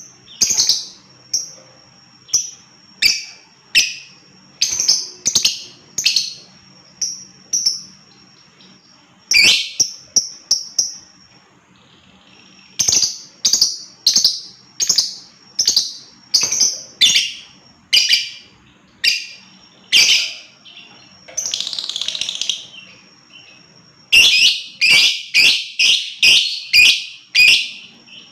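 Lovebird calling: a long series of sharp, high chirps, about one or two a second, with a chattering patch and then a fast run of about four calls a second near the end.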